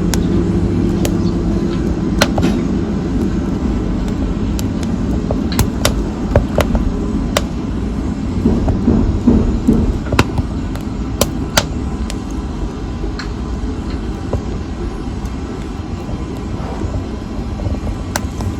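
Wood fire burning in a fireplace: a steady low rumble of flames with sharp crackles and pops scattered through it, roughly one every second or so.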